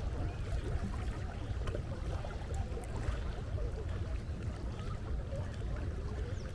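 Seaside ambience: a steady low rumble of wind and water.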